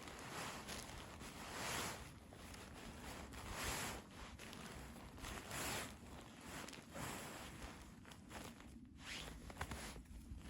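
Slow footsteps crunching in snow, a swell of crunching noise about every two seconds.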